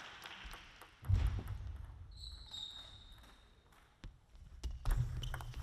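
Table tennis ball clicking sharply off bats and table in a large hall, with a couple of low thuds and a brief high squeak about two seconds in.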